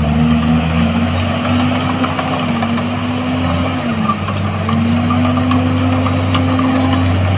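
Heavy diesel engine of earthmoving machinery running steadily under load, its pitch dipping briefly about four seconds in and then recovering.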